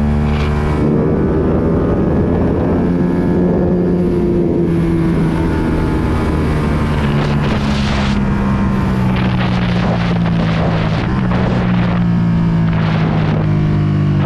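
Ducati Panigale V2 955 cc twin-cylinder engine through a full Akrapovic exhaust, running under way at a fairly steady note that rises and falls gently. The note changes about a second in, and wind rushes over the microphone throughout.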